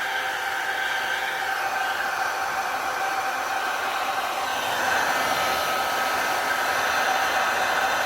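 Heat gun blowing steadily, a whooshing airflow with a faint whine from its fan. About five seconds in, the whine drops slightly in pitch and the sound gets a little louder.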